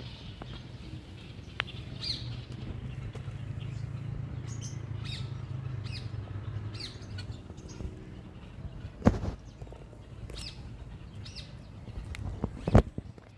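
Small birds chirping in short, repeated calls over a steady low rumble. Two sharp knocks, about nine and thirteen seconds in, are louder than the birdsong.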